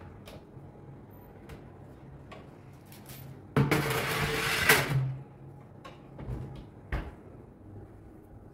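Kitchen cupboard being handled: a loud rush lasting just over a second about halfway through, then a single sharp knock about a second later, with a few light clicks around it.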